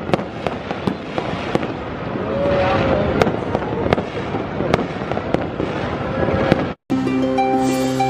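Fireworks going off in a dense barrage of sharp bangs and crackles. About seven seconds in, the sound cuts out and music starts.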